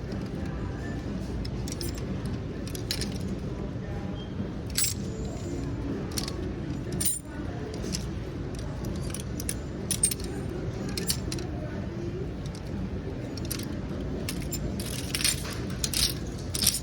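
Scattered sharp, light clinks and clicks, denser near the end, over a steady low background rumble.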